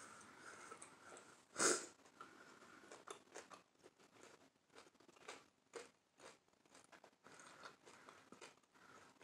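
Close-up mouth sounds of chewing a mouthful of avocado toast: soft crunching and wet clicks, with one louder smack about two seconds in.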